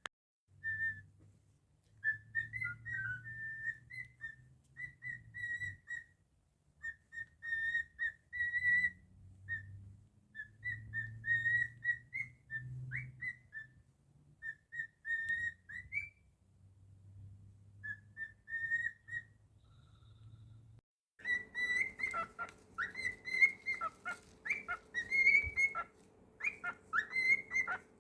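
Cockatiel whistling a tune in short, repeated notes. About two-thirds of the way through, the whistling turns quicker, with sliding notes over a steady low hum.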